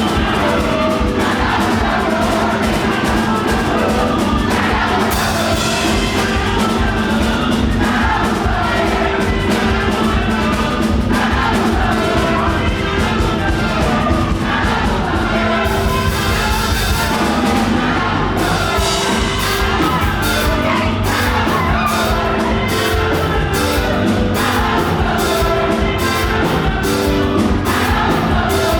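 Fast live gospel praise music: a band with drums and a congregation singing together, with cheers and whoops from the crowd. The beat turns into rapid, sharp hits past the middle.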